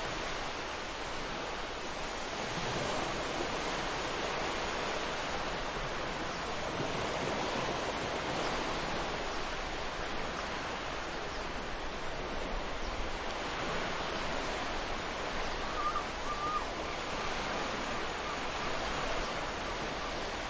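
Ocean surf breaking on a beach, a steady wash of wave noise that swells and eases gently. A brief bird call comes late on.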